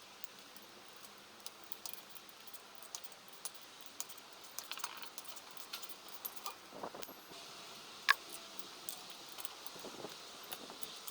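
Scattered light metallic clicks and taps of tools and parts being handled, with one sharp, ringing clink about eight seconds in.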